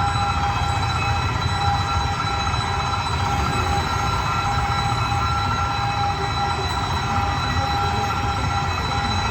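Passenger train rolling past a level crossing: a steady low rumble with several unbroken high-pitched tones over it.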